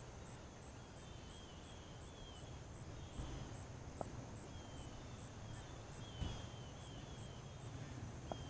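Faint outdoor background: distant birds chirping in short, repeated gliding calls over a low, steady rumble, with a couple of soft knocks.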